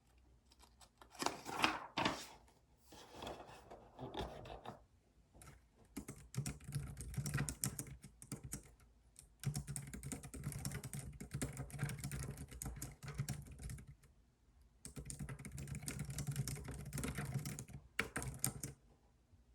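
Typing on a computer keyboard: fast runs of key clicks in a few long bursts with short pauses between, and a louder clatter about two seconds in.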